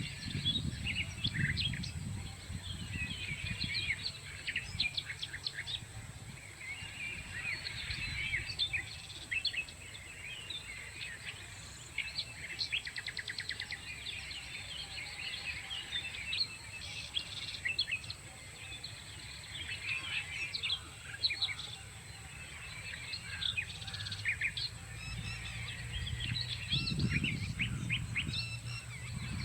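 Many small birds chirping and trilling at once, a dense chorus of overlapping calls with rapid trills, over a low steady rumble.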